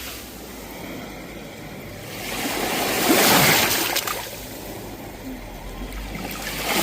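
Sea waves washing onto the shore: one wave swells and breaks about three seconds in, then falls away, and the next builds near the end.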